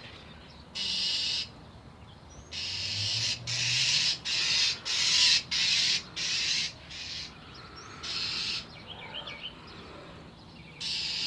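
A bird giving a run of harsh, raspy scolding calls, about nine short bursts of roughly half a second each, most of them packed together in the middle. These are an angry bird's alarm calls aimed at a cat.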